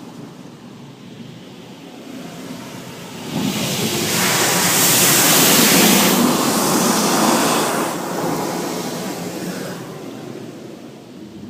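Automatic car wash equipment passing over the car, heard from inside the cabin: a rushing hiss of spray or air that swells about three seconds in, holds loud for a few seconds, then dies away.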